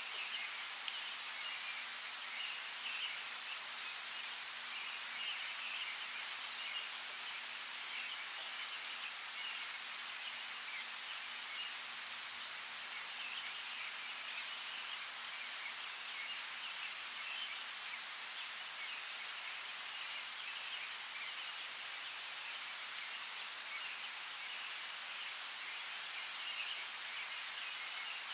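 Steady rainfall with scattered individual drops ticking on a surface, and faint high bird chirps running through it.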